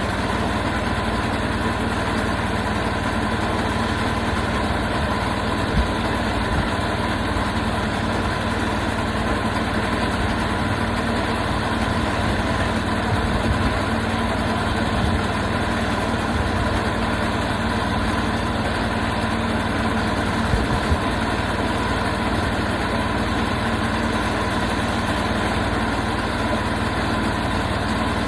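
Portable sawmill's engine running at a steady speed, with a few faint knocks along the way.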